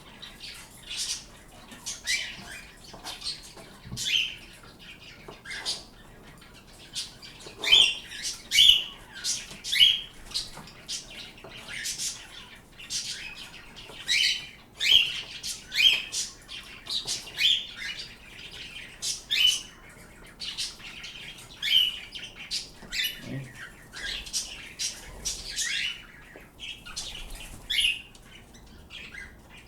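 Pet birds chirping: a steady run of short, sharp, high-pitched calls, one every half second to a second, with a few louder ones.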